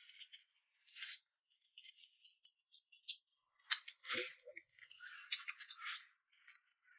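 Close-miked eating sounds of a person chewing a vegetable-filled steamed bun: irregular, soft, wet chewing clicks and lip smacks, busiest from about three and a half to six seconds in.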